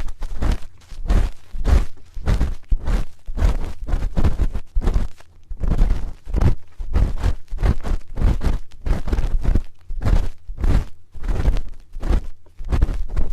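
Spoon scraping and tapping against an ear-shaped microphone, close-miked, in quick repeated strokes of about two a second.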